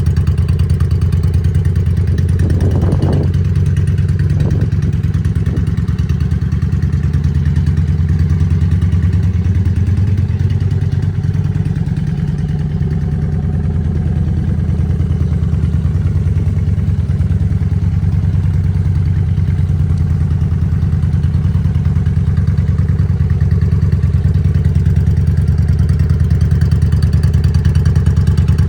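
A Honda Shadow's V-twin motorcycle engine idling steadily, with a few short clatters about three to five seconds in.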